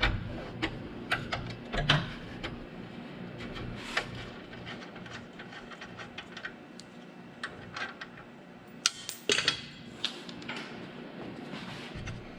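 Metal clicks and clinks of hand tools on nuts and bolts as a miter saw is unbolted from its stand, coming irregularly, with a quick cluster of sharper clinks about nine seconds in.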